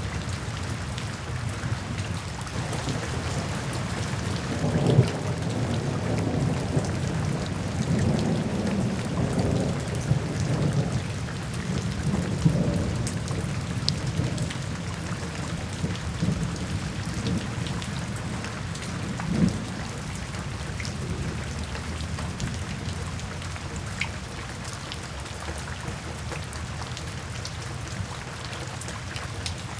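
Steady rain falling, with a long roll of thunder that builds in after a couple of seconds, swells a few times and fades away about two-thirds of the way through.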